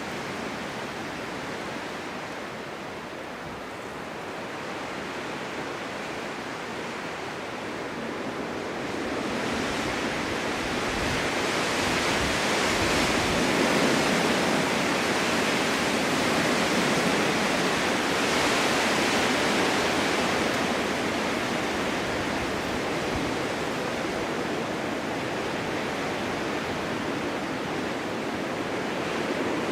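Strong winter wind blowing steadily in a snowstorm, building in a long gust from about a third of the way in, peaking, then easing off toward the end.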